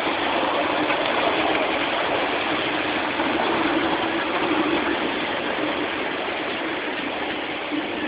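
Steady running noise of a 7.25in gauge miniature railway train heard while riding it, with a low steady hum under the rush of the running, easing slightly near the end.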